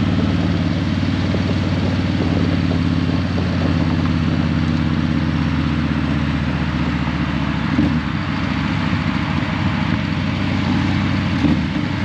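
Harley-Davidson Breakout 117's Milwaukee-Eight 117 V-twin running steadily through Vance & Hines Eliminator 300 slip-on mufflers. The engine note changes briefly about eight seconds in, and there is a short knock near the end.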